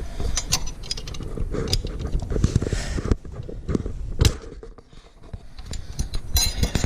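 Irregular metal clicks, scrapes and knocks of a hooked spring tool working against a motorcycle centre stand's small return spring as it fails to catch, with a sharper knock about four seconds in.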